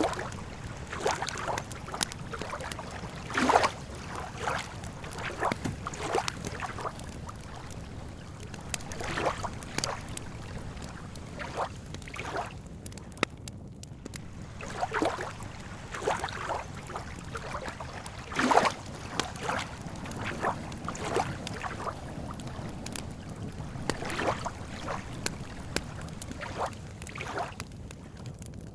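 Campfire crackling with irregular sharp pops, mixed with small waves lapping and splashing at the lake edge over a steady low rush. Two louder splashy pops come a few seconds in and again just past halfway.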